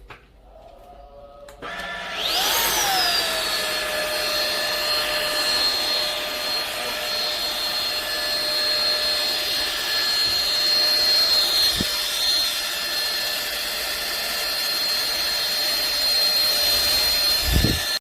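Airbot Hypersonics PRO handheld cordless vacuum cleaner switching on about two seconds in: its motor whine rises quickly, briefly overshoots, then settles into a steady high whine over a rush of air. A low thump comes near the end.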